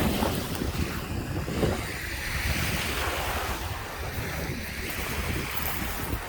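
Lake Michigan waves washing onto the shore, one wash swelling and fading about the middle, with wind buffeting the microphone throughout as a low rumble.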